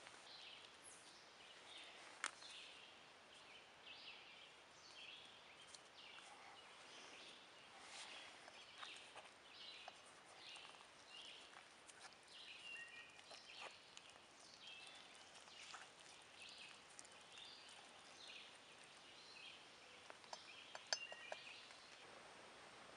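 Faint woodland birdsong: short chirps repeating every second or so throughout. A few light clicks stand out, a short cluster of them near the end being the loudest sound.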